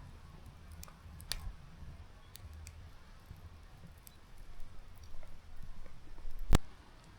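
Scattered light clicks and taps over a soft low rumble, with one sharper, louder click near the end.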